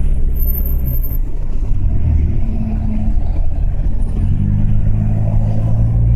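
A car's engine and road noise while driving on the highway, heard from inside the car. It is a steady low drone whose pitch shifts about a second in and again a little past four seconds.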